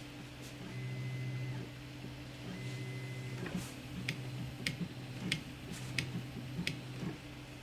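Zonestar P802M 3D printer running: its stepper motors hum and whine in short moves of about a second each. Sharp ticks come roughly every two-thirds of a second in the second half.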